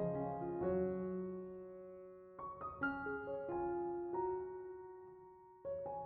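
Soft background piano music: chords struck and left to ring and fade, with new chords coming in about two and a half seconds in and again near the end.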